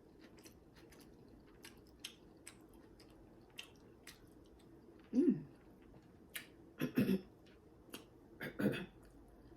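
A person chewing food close to the microphone, with small wet mouth clicks and smacks, and a few short hummed "mm" sounds in the second half, the first falling in pitch.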